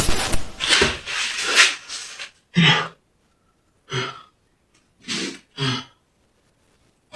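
A loud crash-like noise dies away over the first two seconds. Then a person gasps and breathes hard in about five short, separate breaths, startled by the noise.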